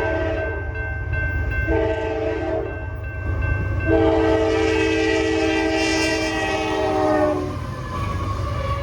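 Freight locomotive's multi-chime horn sounding for the crossing: a long blast ends about half a second in, a short blast follows around two seconds in, and a long blast runs from about four seconds to seven and a half, its pitch dropping toward the end as the locomotive passes. A low, steady rumble of the train runs underneath.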